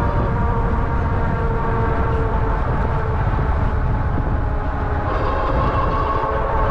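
Electric hub motor of an Ariel Rider Grizzly e-bike whining steadily under way, over a heavy rumble of wind and tyre noise. The whine fades somewhat in the middle and comes back stronger about five seconds in.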